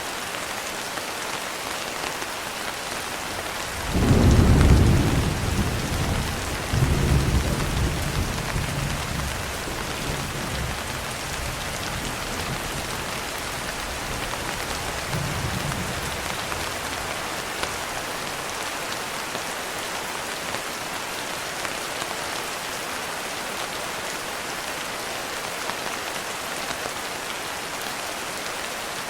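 Steady heavy rain falling on a surface, with a roll of thunder that breaks in about four seconds in, swells again a few seconds later and rumbles away over the next ten seconds or so.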